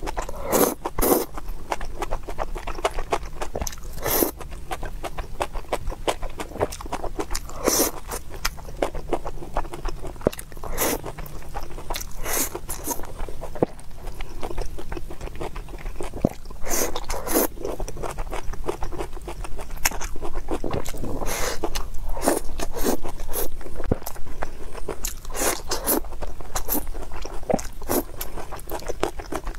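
Close-miked chewing and eating of rice in sauce: wet mouth smacks and crackling clicks coming at an uneven pace.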